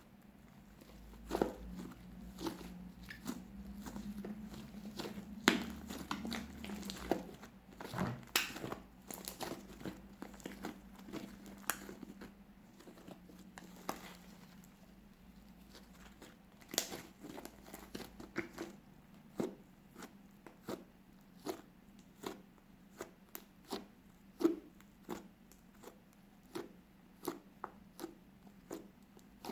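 Fluffy slime made from glue and shaving foam being squeezed and stretched by hand, giving irregular crackling pops and clicks from trapped air. The pops come thick and fast at first, then spaced about a second apart.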